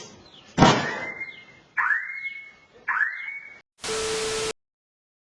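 A sudden loud hit, then three rising whooping tones about a second apart, like an alarm. A short burst of hiss with a steady hum follows, and the sound cuts off abruptly into silence.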